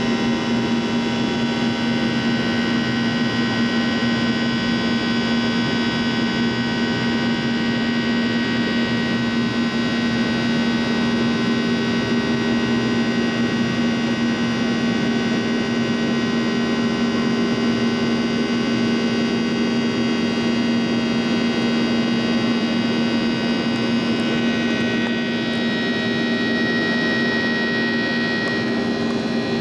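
CFM56-7B turbofan engines of a Boeing 737-800 heard from inside the cabin during the climb after takeoff: a steady loud drone with a low hum and several held whining tones, a few of which shift slightly near the end.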